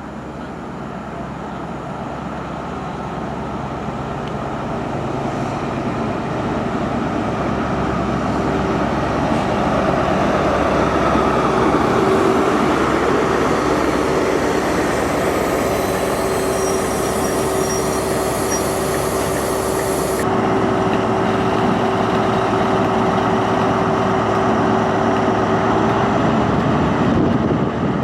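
A train approaching and passing close by. Its running noise grows louder for about ten seconds, then holds steady with a constant humming tone. About two-thirds of the way through, the high hiss drops away suddenly.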